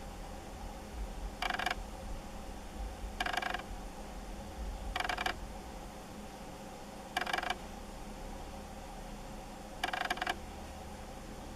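A bird calling: a short, harsh note repeated five times, about every two seconds, over a steady low hum.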